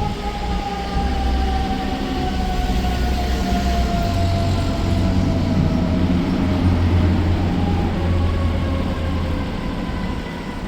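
Fire truck siren winding down, its wail sliding slowly lower in pitch over several seconds and fading, over the loud low engine rumble of a tiller ladder truck pulling away. A fresh siren tone starts to rise again near the end.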